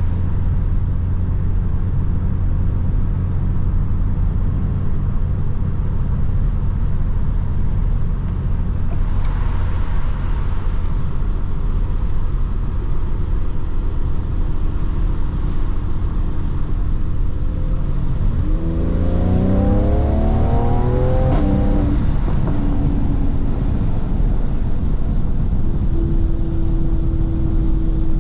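Mercedes C43 AMG engine and exhaust running with a steady low drone while cruising. About 18 s in, the car accelerates hard and the engine note rises in pitch for a few seconds, then settles back to a steady tone.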